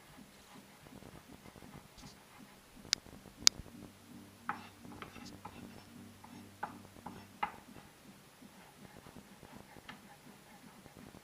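Scattered light clicks and knocks of kitchen utensils during food preparation, with two sharp clicks about three seconds in, over a faint steady hum.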